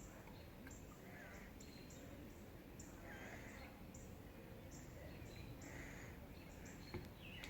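Near silence, with a few faint bird chirps, three soft calls spread through the quiet.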